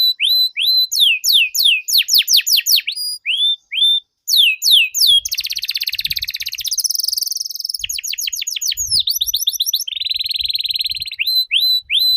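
Domestic canary singing a long, unbroken song: quick runs of falling whistled notes and trills, broken by dense buzzy rolls about five to seven seconds in and again near ten seconds.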